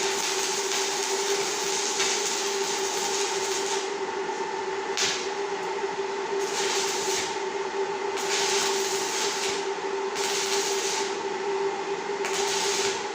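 A steady machine hum with a constant pitch, under a hiss that swells and fades every second or two.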